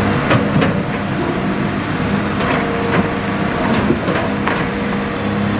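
Hitachi hydraulic excavator's diesel engine running steadily under load, with about half a dozen sharp knocks and clatters of stone as the bucket works river rock.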